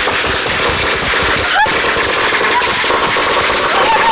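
A long string of firecrackers going off in a dense, continuous rapid crackle of bangs, like machine-gun fire. It is loud throughout and shows no let-up.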